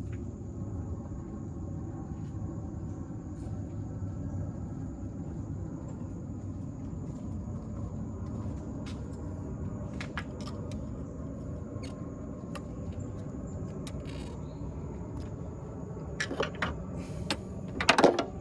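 A steady low rumble, with scattered light metallic clicks and clinks of hand tools and a cable being handled, growing into a cluster of louder clinks near the end.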